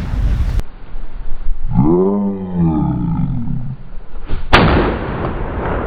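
The boom of a matchlock gun shot dies away. A low, drawn-out call rises and falls, and about four and a half seconds in a second loud bang comes, followed by a long rolling tail.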